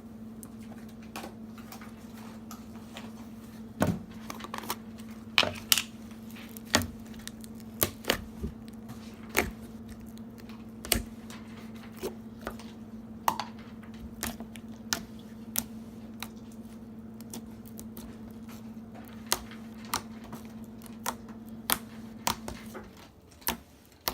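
Thick slime being squeezed and poked, giving irregular sharp clicks and pops, roughly one or two a second. A steady low hum runs underneath and stops near the end.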